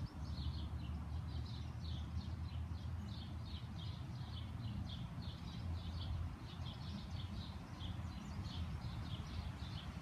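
Small songbirds chirping: a steady run of short, high chirps, several a second, over a low rumble.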